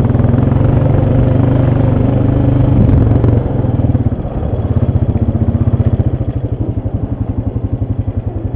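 ATV engine running steadily under throttle, then easing off about three and a half seconds in to a lower, evenly pulsing idle.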